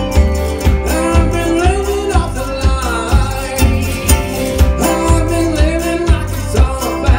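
A band plays a song with a lead vocal over a steady beat of about two strokes a second.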